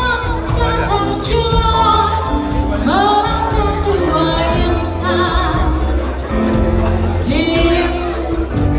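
Live band playing a pop song: a sung melody with vibrato over a steady bass line and light percussion.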